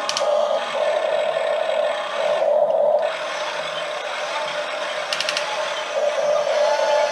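Electric motors and gearboxes of radio-controlled toy excavators whining steadily, with a few quick clicks near the start and again about five seconds in.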